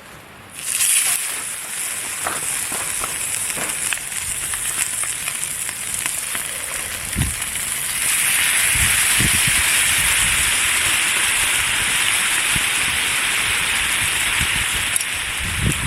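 Food sizzling in a hot pan. It starts suddenly, as if just laid in the pan, with small crackles, and gets louder about eight seconds in. A few low knocks from handling are heard.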